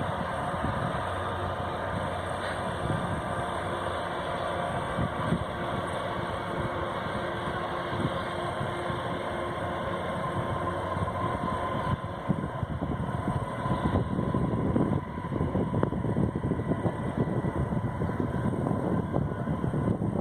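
Freight train running by: a steady rumble of rolling stock on the rails. It grows louder and rougher about twelve seconds in.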